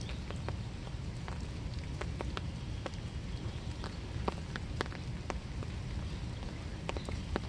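Steady winter rain with a low rumbling background, and scattered individual drops tapping and plinking close by.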